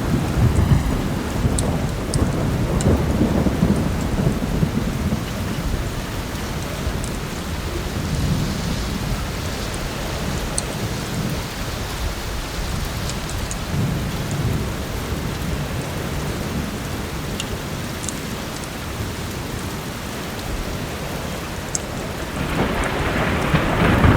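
Heavy rain falling steadily under low rolling thunder, with the rumble swelling loudly near the end. A few faint sharp ticks are scattered over the rain.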